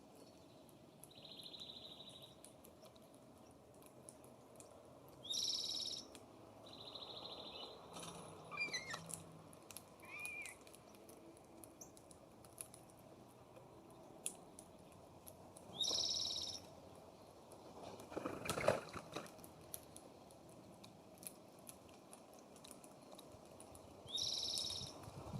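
Wild songbirds calling at a feeder. A short, high, harsh call comes three times, about ten seconds apart, with two buzzy notes and a few soft chirps in between. A brief noisy burst comes about two-thirds of the way in.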